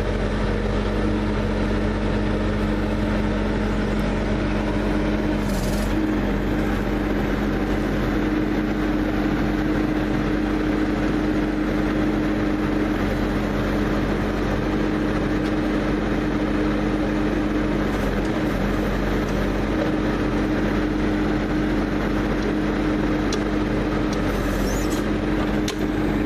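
Skid-steer loader's engine running steadily at a constant speed, its pitch dipping briefly a couple of times.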